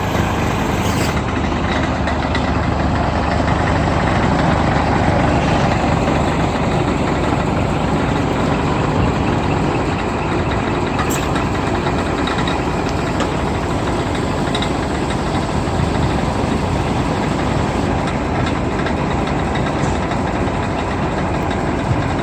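Scania R 480 truck's diesel engine running steadily at idle.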